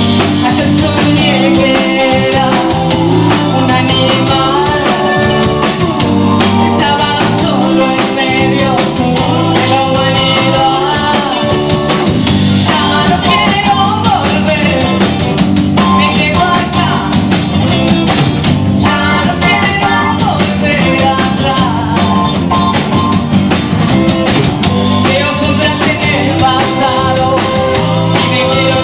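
Live rock band playing a song: a lead vocal sung over electric guitar, bass, drums and keyboards.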